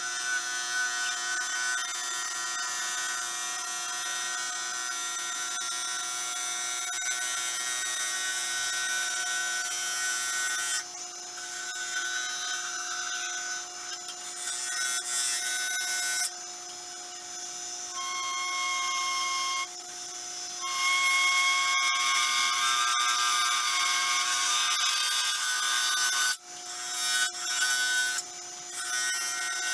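Wood lathe running with a steady motor whine while a gouge cuts a stick-and-resin blank, a hissing scrape that stops briefly several times as the tool is lifted and set back on.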